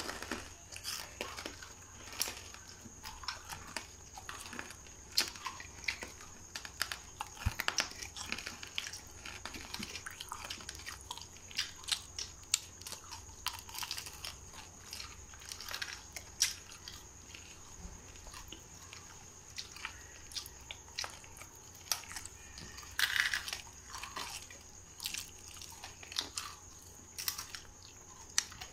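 A person chewing and biting fried chicken pakora close to the microphone: irregular crunches and wet mouth clicks, with a few louder bites.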